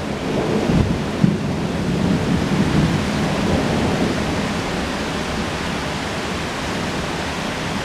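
Tropical rainstorm: rain falling steadily, with a low rumble of thunder through the first few seconds that eases off.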